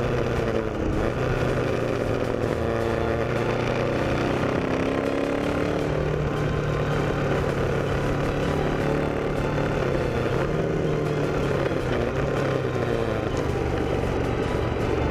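Motorcycle engine running steadily under way, its pitch drifting gently up and down.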